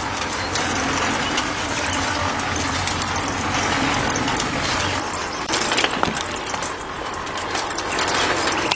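Homemade stone-and-sand separating machine running steadily, with a low motor hum under a continuous gritty rattle and scattered sharp clicks of stones. It cuts off suddenly at the end.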